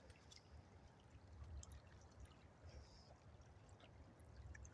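Near silence: faint flow of river water with a low rumble underneath.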